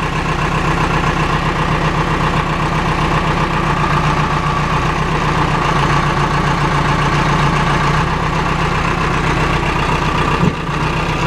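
Case 570 MXT tractor's 3.9-litre Cummins four-cylinder diesel engine running steadily at idle.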